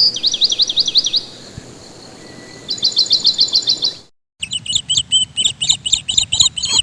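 Small birds chirping: a whistled note, then rapid series of high, quick notes. The sound cuts off a little past halfway and chirping in a different pattern starts again.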